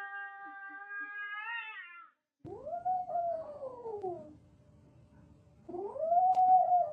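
A cat yowling twice, each a long drawn-out call that rises and then falls in pitch; the second is louder. Before them, a steady high held tone bends upward and cuts off about two seconds in.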